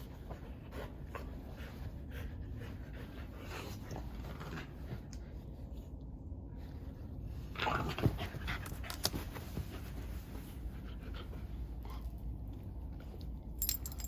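A dog panting steadily, with a brief louder burst of noise about eight seconds in.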